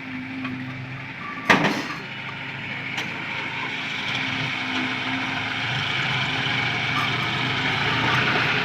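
Tractor diesel engine running steadily and getting gradually louder. A single sharp knock about a second and a half in.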